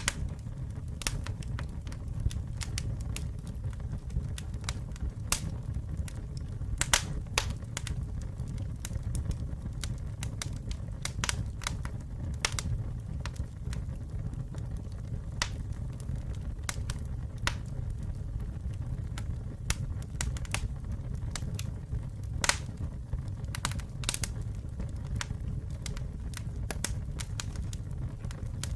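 Wood fire burning with a low steady rumble and irregular sharp crackles and pops from the burning wood, a few of them louder.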